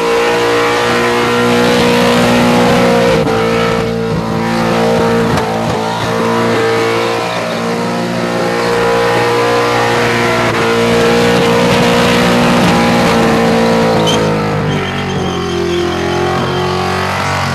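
Holden VL Calais engine held at high revs in a burnout, with tyre squeal. Near the end the revs sag and fall away as the engine, having dropped a valve and smashed a piston, goes from full RPM to no RPM.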